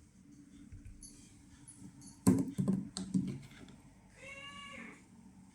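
A cluster of knocks and clicks a couple of seconds in, then a domestic cat meows once, short, near the end.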